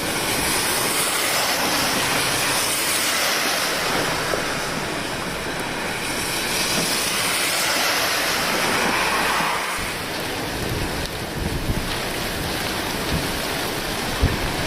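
Steady, loud rushing of the typhoon-swollen Tonda River in flood. From about ten seconds in, gusts of wind buffet the microphone.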